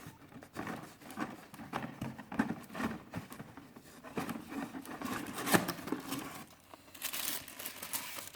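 Plastic blister packaging of a diecast model car crinkling and rustling as it is handled and opened, with a string of small clicks and knocks and a longer, denser rustle near the end.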